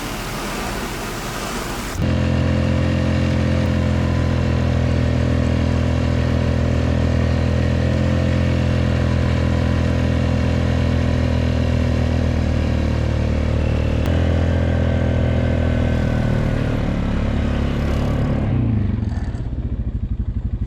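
Four-wheeler (ATV) engine running steadily under way, then slowing down and dropping to a lower, idling note near the end. It is preceded by a couple of seconds of even hiss.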